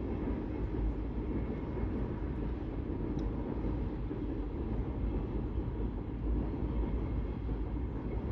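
Steady low rumble of a rail vehicle running.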